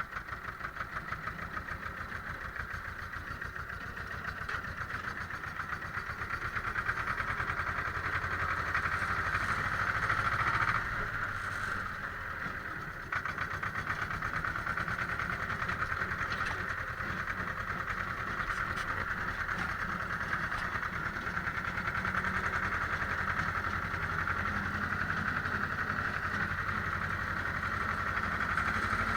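Ursus C-330 tractor's two-cylinder diesel engine running with a fast, even knocking beat. Its note dips briefly about eleven seconds in, then picks up again about two seconds later.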